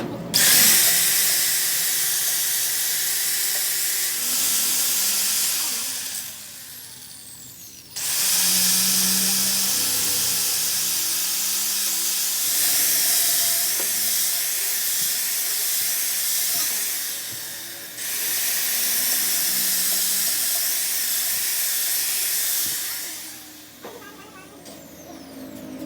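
A loud, steady hiss in three long bursts, each starting suddenly and fading out, with short quieter gaps between them.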